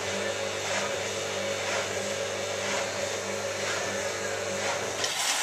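Hotpoint 9534A washing machine's motor running, with a steady hum and a swishing swell about once a second. The motor hum cuts off about five seconds in.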